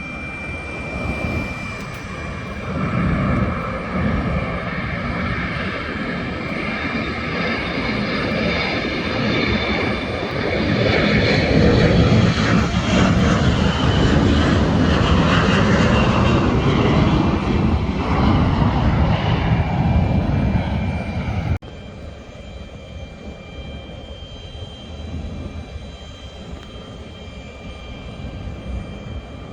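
Jet airliner engines passing close by: the noise builds to a peak, and some of the whine falls in pitch as the aircraft goes past. About two-thirds of the way in it cuts off abruptly to a quieter, steady jet whine.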